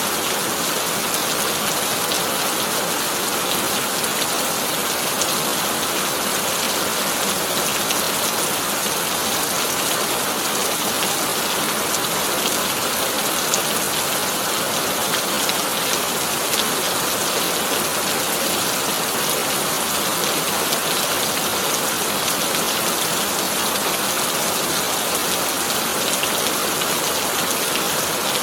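Heavy rain drumming steadily on a tin roof, a dense even patter of countless drop ticks with no letup and no thunder.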